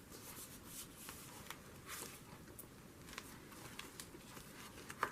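Faint rustling and light scattered ticks of paper being handled and pressed down while a cut piece is glued onto a journal page.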